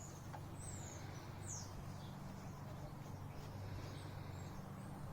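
A few short, high, falling bird chirps in the first second or two, over a low steady hum.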